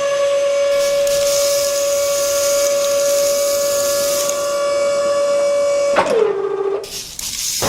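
Small electric motor whining at a steady pitch, with a hiss above it. About six seconds in it slows to a lower pitch and dies away, and a noisier rushing sound starts near the end.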